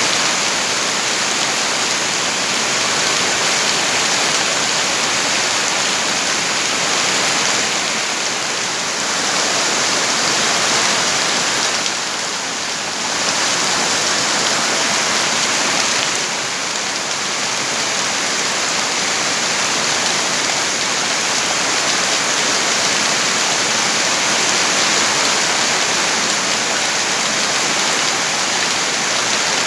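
Heavy rain falling steadily, a dense even hiss that eases slightly for a moment about twelve seconds in.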